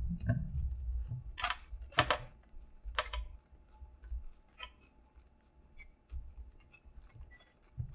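Close chewing of a mouthful of spicy chicken sandwich: wet mouth clicks and smacks, a few sharp ones in the first half, fainter ones after.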